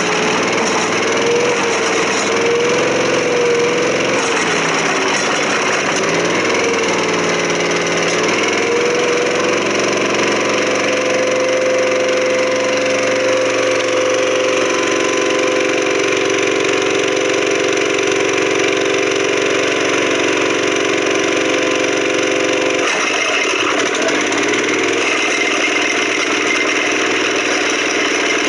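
Engine of a Vermeer walk-behind trencher, a Kohler, running steadily at working speed while the trencher digs. Its pitch wavers up and down for the first several seconds, then holds steady. About twenty-three seconds in, the sound changes abruptly and turns rougher.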